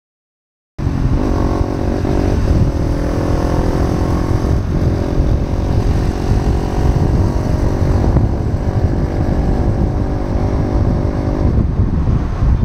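Motorcycle engine running on the move, its pitch shifting a few times, under heavy wind rumble on the microphone; it starts abruptly about a second in.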